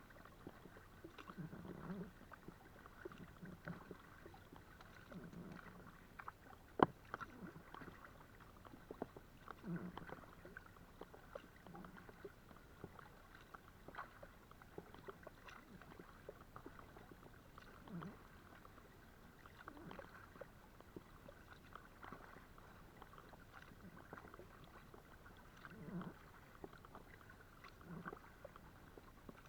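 Kayak paddling: soft swishes of the paddle blades in the water about every two seconds, with small knocks and one sharp click about seven seconds in, heard from a camera mounted on a Decathlon Itiwit X500 kayak.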